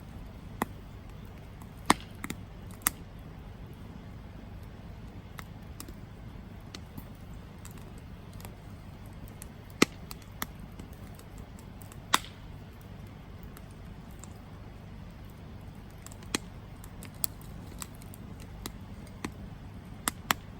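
Campfire burning with a low steady rush and irregular sharp crackles and pops from the wood, about a dozen, the loudest a few seconds apart.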